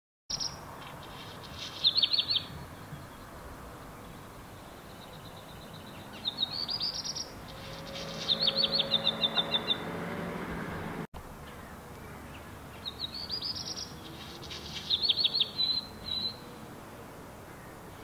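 Black redstart singing: three song phrases, each a short rising warble followed by a fast run of clipped, rattling notes.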